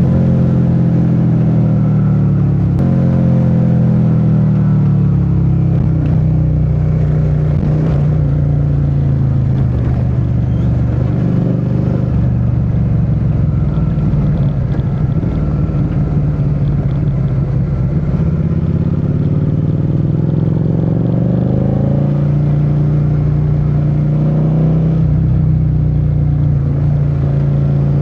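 Suzuki SV650's 645 cc V-twin engine pulling on the road. Its note drops over the first few seconds, sinks low and rough in the middle, then climbs again about two-thirds of the way through and settles steady.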